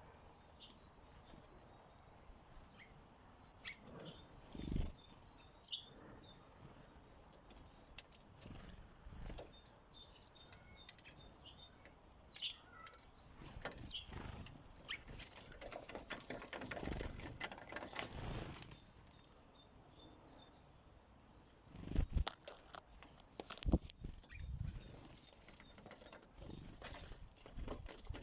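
Sparrows at a bird feeder: irregular taps and knocks from pecking and landing, flurries of wingbeats, and faint high chirping in the background.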